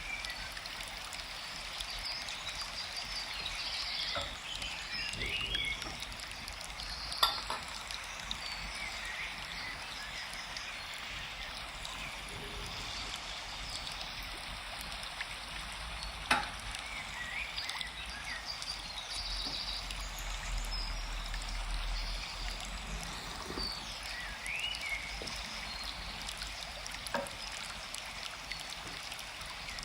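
Forest ambience: a steady hiss of running water with scattered bird chirps. Three sharp clinks stand out, the loudest about seven seconds in.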